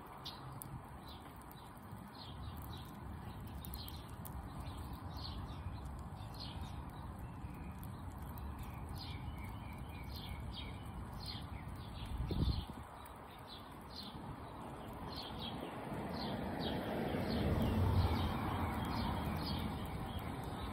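A small bird chirping over and over, about two short high chirps a second, over a steady low outdoor rumble. A brief low thump comes about twelve seconds in, and a low rumble swells and fades in the last few seconds.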